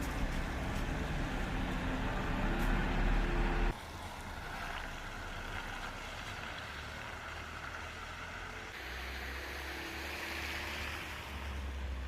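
Outdoor street ambience: a steady low vehicle rumble over a general noise haze, with faint engine-like tones in the first part. The sound changes abruptly twice, about four and nine seconds in.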